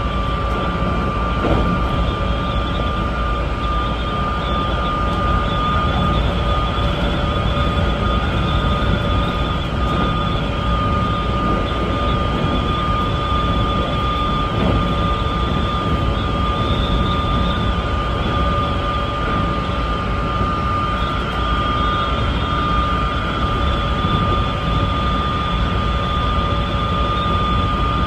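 Keikyu 1500-series electric train running at speed, heard from the driver's cab: a steady rumble of wheels on rail with a steady high whine over it.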